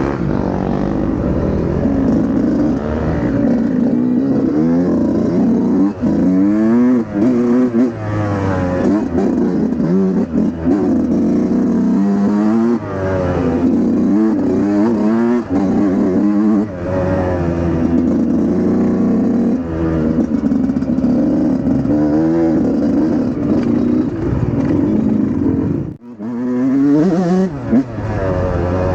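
Dirt bike engine revving up and down over and over under changing throttle, its pitch rising and falling. It cuts out briefly near the end, then picks up again.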